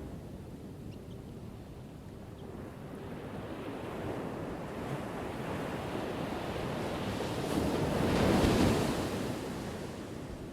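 Ocean surf crashing on a shore. The wash builds over several seconds, and one wave breaks loudest about eight seconds in before subsiding.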